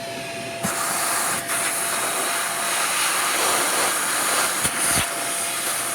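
Vacuum cleaner drawing air through a LEGO vacuum engine. A loud, even rush of air starts abruptly about half a second in and is broken by a few light knocks.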